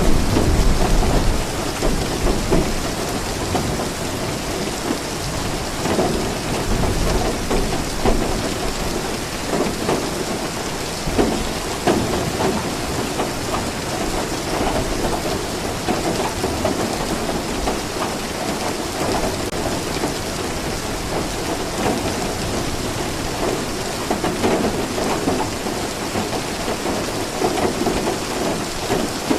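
Steady rain falling, with low thunder rumbling in the first couple of seconds and again about seven seconds in.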